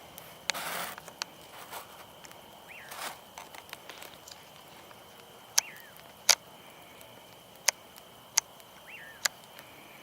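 Campfire crackling: scattered sharp pops, several loud ones in the second half, over a steady high insect drone.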